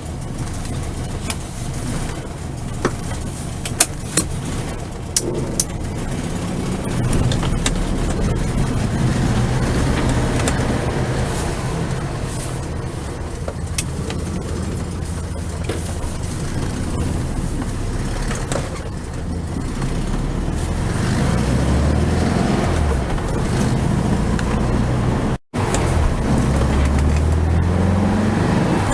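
1969 VW Beetle 1500's air-cooled flat-four engine running as the car drives, its pitch rising several times as it accelerates through the gears in the second half. A few sharp clicks sound in the first few seconds.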